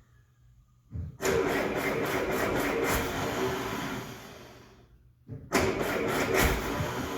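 The M151A1 jeep's four-cylinder engine cranks and fires on gas squirted into the carburettor, runs a couple of seconds and dies away, then does the same again about four seconds later. It only runs on the primed fuel because the fuel pump and carburettor need rebuilding.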